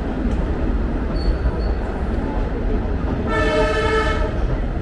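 Train horn sounding one blast of just over a second, starting about three seconds in, over a steady low rumble.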